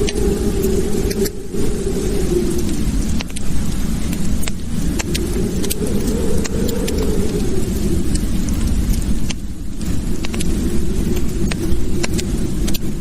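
Wood fire in a fireplace crackling: scattered sharp pops and snaps over a low rumble that swells and eases every few seconds.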